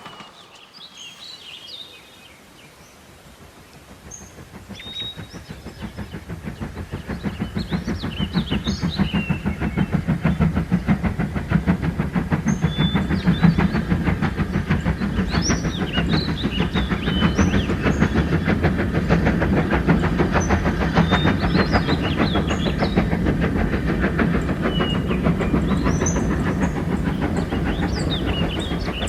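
A train approaching: a rhythmic rumble that grows louder over several seconds and then runs on steadily at full strength, with short high chirps over it.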